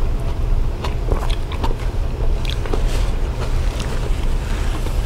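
Close-miked eating sounds: chewing with scattered wet mouth clicks and smacks, over a steady low rumble.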